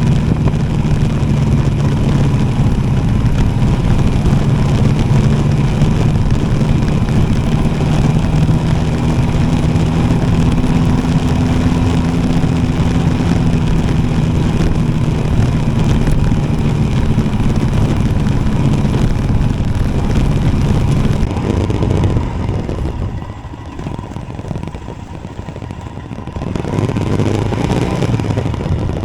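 Royal Enfield Himalayan single-cylinder motorcycle engine running steadily while riding, under heavy wind rumble. About three-quarters of the way through the sound drops for a few seconds, then picks up again.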